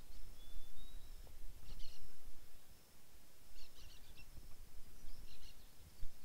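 Outdoor field ambience: small birds chirping in short bursts, three times, with a faint thin whistle near the start, over a steady low rumble.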